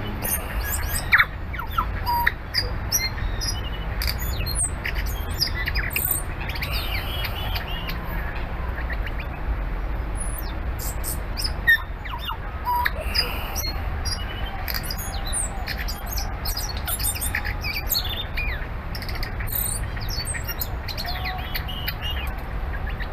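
Tui singing: a scattered run of sharp clicks, short whistled notes and squeaky calls, over a steady low rumble.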